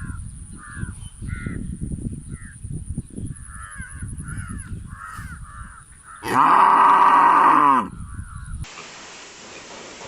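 Animal calls: a run of short repeated calls, then about six seconds in one loud, drawn-out call lasting about a second and a half that drops in pitch at its end. Near the end the sound cuts to a steady hiss.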